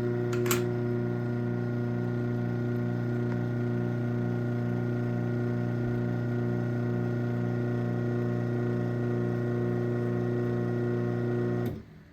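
Craftsman 1/2 hp garage door opener motor running steadily as it closes the door, a loud even hum with a click about half a second in. It cuts off abruptly near the end as the door reaches its closed limit.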